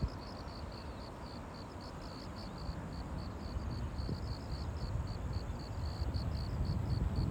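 Insects chirping in an even series of short high chirps, about four to five a second, over a low rumble of wind on the microphone.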